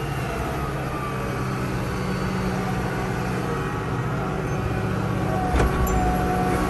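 Kubota L6060 tractor's diesel engine running steadily under way. A single knock sounds about two-thirds of the way through, after which the low rumble grows stronger.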